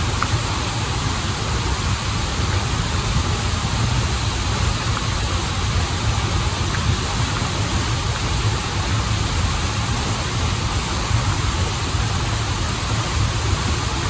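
Waterfall and stream water rushing steadily, a dense even noise with a deep low rumble and no changes.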